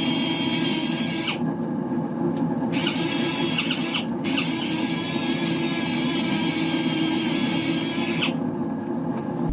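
Power sander running steadily while sanding car paint off a stone-chipped front panel. A high abrasive hiss, with a squeal in it, comes and goes as the pad meets and leaves the surface: it drops out about a second in, returns near three seconds, breaks briefly around four seconds, and stops near the end while the motor keeps running.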